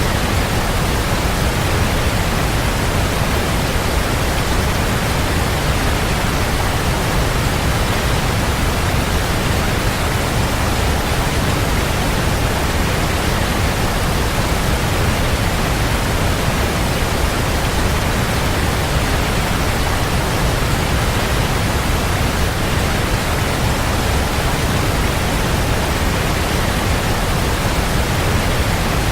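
A waterfall: a steady, unbroken rush of falling water, heavy in the low end.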